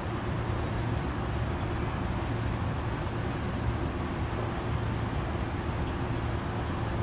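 Saitama Railway 2000 series electric train standing at a station, heard from inside the car: a steady, unchanging hum from its onboard equipment, with no wheel or motor sounds.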